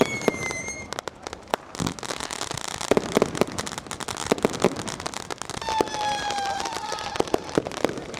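Fireworks and firecrackers going off all around: a dense, irregular run of sharp bangs and cracks. A brief falling whistle comes at the start, and a longer whistle sliding slightly down comes about six seconds in.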